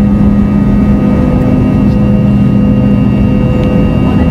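Fokker 70's Rolls-Royce Tay turbofan engines running at a steady setting, a loud even roar with a fixed buzzing tone and a higher whine over it.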